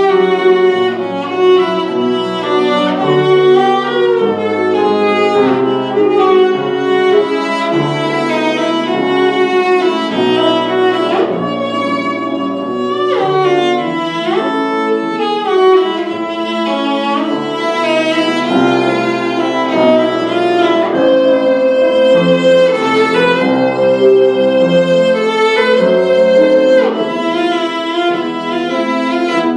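Violin playing a continuous melody with vibrato over a lower accompaniment of changing bass notes.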